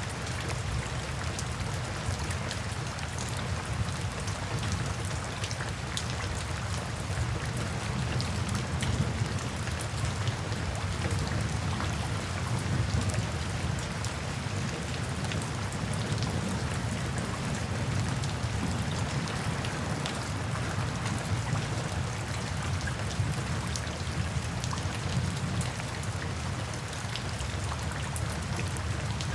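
Steady falling water, an even patter with faint scattered drop ticks and a strong low rumble underneath.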